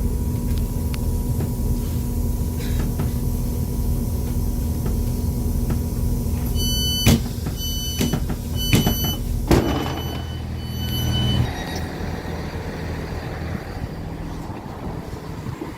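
Diesel multiple-unit train idling at the platform with a steady low engine hum, while its door-warning beeps sound in a run about halfway through and the doors shut with a few sharp knocks. The engine note changes and drops back a little after that.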